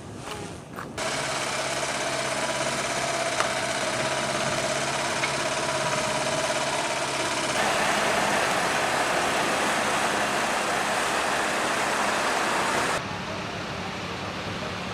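Heavy truck engine running steadily under a broad noise of rolling and wind. The sound changes abruptly about a second in, midway, and near the end, as the footage cuts between clips.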